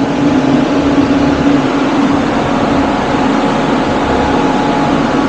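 Supercharged big-block Ford V8 idling steadily, with the electric radiator cooling fans running alongside.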